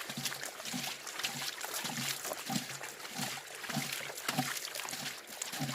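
Gold pan being shaken in river water to wash down a sample, giving a rhythmic sloshing about every half second or so. The panning is done to check whether the specks are fine gold or mica.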